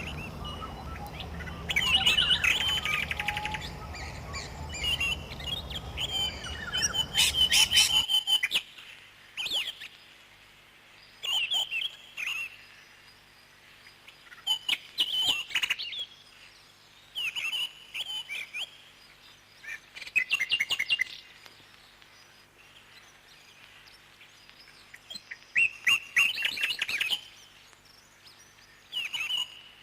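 Parrots chirping in short bursts of rapid, high chirps every second or two. A steady low hum sits under the first part and stops abruptly about eight seconds in.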